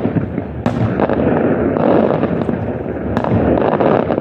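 Fireworks display going off in a dense, continuous barrage of crackles and bangs, with two sharper reports standing out, one a little after half a second in and one about three seconds in.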